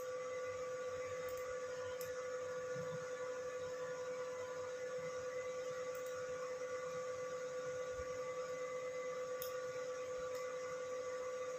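Steady electrical hum: one constant mid-pitched tone with fainter higher tones above it, unchanging throughout.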